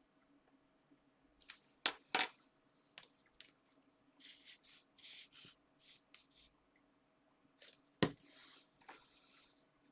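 Small hand-crafting noises on a work table: a few sharp taps of small objects or tools set down, and a quick run of short paper rustles and scrapes in the middle.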